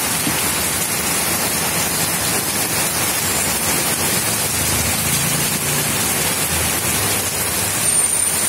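Heavy rain falling steadily on wet pavement, an even, unbroken hiss.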